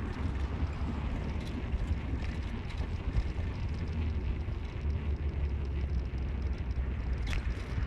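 Steady low rumble of a car being driven, engine and road noise, with a few faint ticks.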